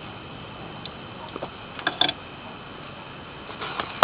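A few scattered light clicks and taps over a steady background hiss, ending in a single sharp knock.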